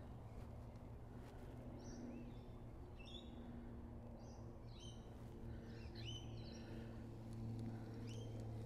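Birds calling: about six short high chirps, each rising quickly at the start, spaced roughly a second apart from about two seconds in, over a faint steady low hum.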